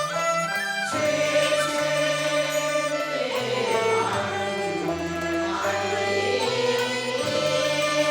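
Cantonese opera music between sung lines: a wavering melody over held notes and a bass line that steps down and back up.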